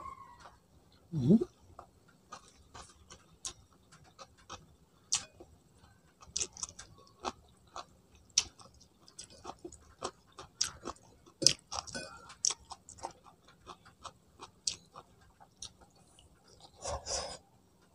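Close-miked chewing and lip-smacking as rice and pork are eaten by hand, heard as many irregular sharp wet clicks. A brief low hum comes about a second in, and a short breathy rustle near the end.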